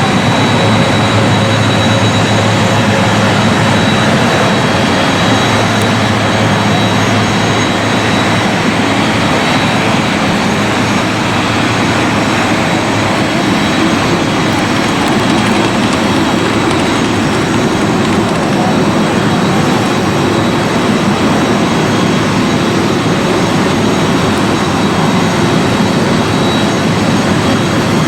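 Jet airliner engines running with a loud, steady rush, with a faint high whine that fades out after several seconds.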